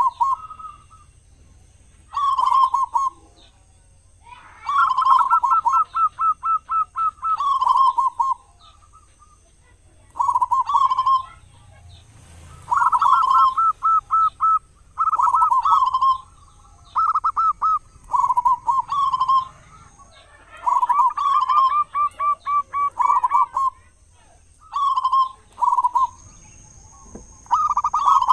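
Zebra dove cooing: its loud, ringing song phrases of quick, evenly spaced notes repeat every two to three seconds, with short pauses between them.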